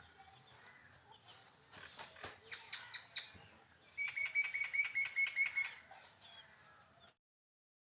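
Bird chirping: a few scattered high chirps among light taps, then a quick, even run of about ten short chirps in the middle. The sound cuts off abruptly near the end.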